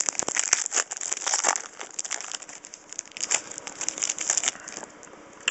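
Wrapper of a trading-card pack being torn open and crinkled by hand, an irregular run of crackles and clicks that thins out near the end.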